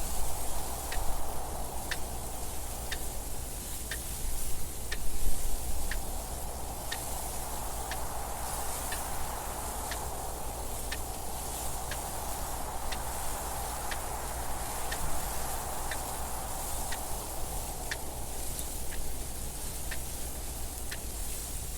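Clock ticking about once a second over steady wind noise, with a stronger gust about five seconds in.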